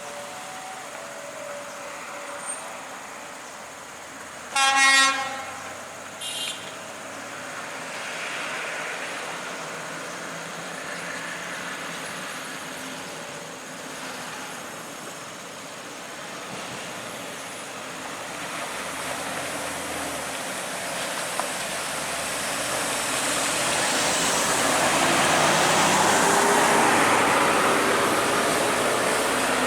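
A truck's horn gives one loud blast about four seconds in, then a short second toot, over road traffic. Then the engine and tyre noise of a heavy truck grows and is loudest near the end as it passes.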